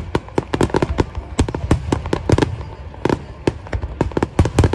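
Aerial fireworks bursting in rapid succession, several sharp bangs and crackles a second over a low rumble.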